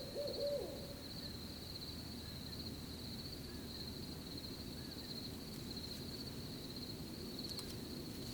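Crickets trilling steadily in one high pulsing band. An owl's run of hoots ends in the first second, over a low rustling background.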